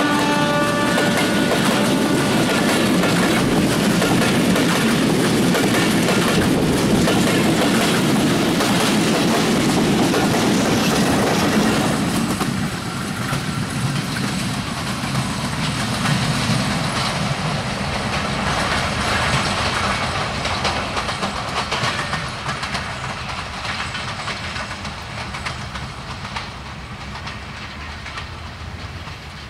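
Passenger coaches of a broad-gauge commuter train run past close by in a steady loud noise of wheels on rails, with the tail of the diesel locomotive's horn fading in the first couple of seconds. About twelve seconds in the sound drops suddenly to a quieter, more distant train running sound that slowly fades.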